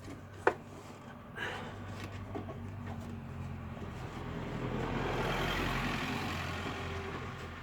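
A motor vehicle passing by, its noise swelling to a peak a little past the middle and then easing off, over a steady low hum, with a single click about half a second in.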